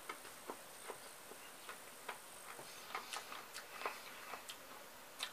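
Faint, crisp crunches of someone chewing fresh-cut cucumber salad: a string of short, irregular crunches, about three or four a second.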